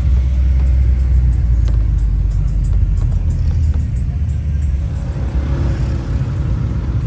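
A car engine running with a deep, steady rumble, with music playing over it.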